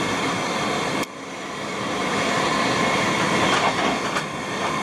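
Commuter train running at speed, heard from inside the passenger car as a steady rumble and rush of wheel and track noise. About a second in there is a sharp click, after which the noise dips briefly and builds back up.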